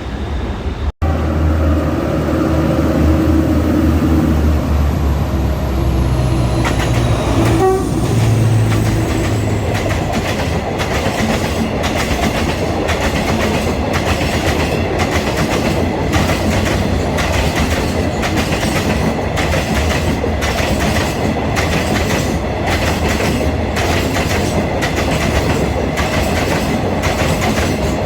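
Freight train passing on the line: a low engine drone for the first several seconds, then the wagons clattering over the rail joints in a steady, even rhythm.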